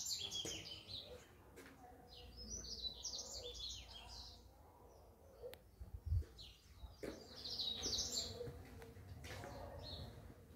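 A songbird singing in three bursts of rapid, high chirping phrases, at the start, a few seconds in and again near the middle, with one short low thump about six seconds in.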